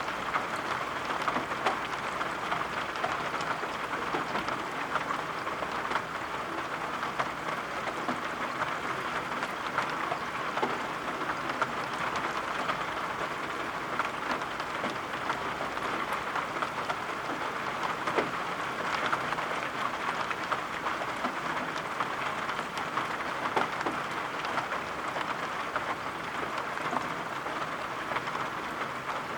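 Steady rain falling, an even hiss dotted with frequent small ticks of drops.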